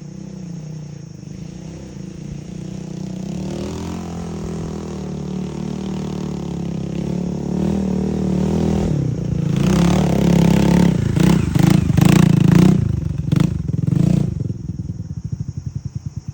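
Off-road motorcycle engine running and being revved, getting louder, with a run of sharp clattering knocks in the loudest stretch a little past the middle. Near the end it drops back to a low, pulsing putter.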